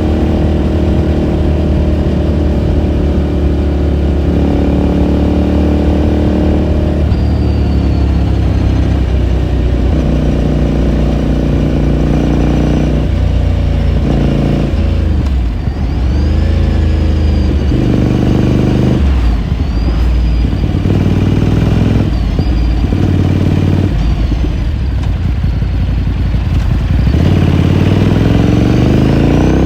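A 2018 Ducati Scrambler Sixty2's 399 cc air-cooled L-twin heard from onboard while riding. Its exhaust note holds steady at first, then drops and picks up again several times as the throttle closes and opens, and it climbs in pitch near the end as the bike accelerates.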